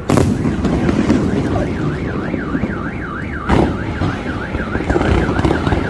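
Aerial fireworks going off, with a sharp bang right at the start and another about three and a half seconds in, over a continuous low rumble of bursts. From about two seconds in, a car alarm wails, its pitch sweeping up and down about three times a second, likely set off by the blasts.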